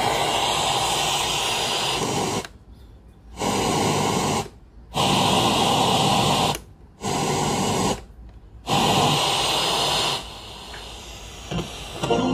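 Radio static hiss from a cassette radio's receiver between stations, dropping out abruptly four times.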